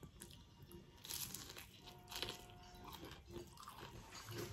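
Crunching and chewing of a mouthful of crispy fried sweet potato and shrimp fritter, with louder crunches about one and two seconds in.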